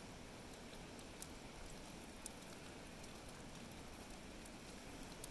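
Light rain sprinkling: a faint, steady patter with a few sharper drops ticking now and then.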